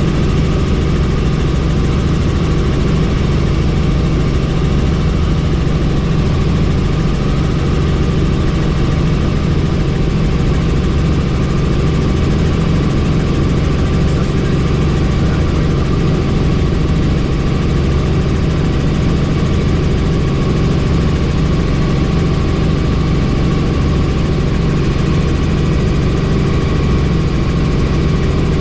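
Helicopter in flight, heard from inside with the doors off: a steady, loud drone of rotor and turbine with rushing wind, unchanging throughout.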